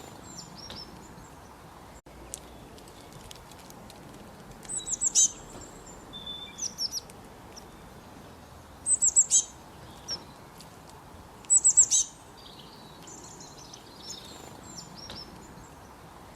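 Songbirds singing over a steady rush of flowing creek water: loud phrases of four or five quick, high, down-slurred notes come three times, about three seconds apart, between softer twittering.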